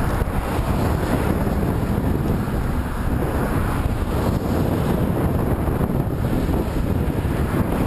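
Wind buffeting the microphone of a camera moving into a headwind: a steady low rush of noise with no breaks.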